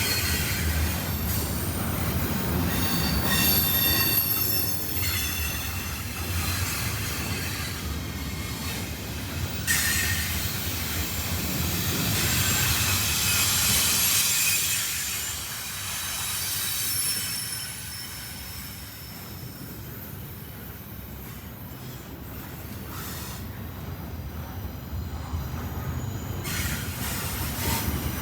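Freight train cars rolling past, steel wheels squealing against the rails over a low rumble. Several high squeal tones come and go; the train grows quieter a little past halfway and louder again near the end.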